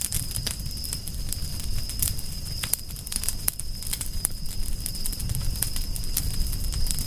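Wood fire crackling, with many irregular sharp pops and snaps over a low rumble, and a steady thin high tone running underneath.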